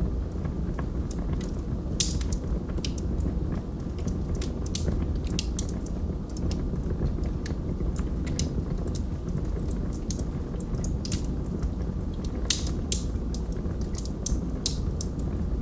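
Wood logs burning in a fireplace: a steady low rumble of flames with frequent irregular crackles and pops.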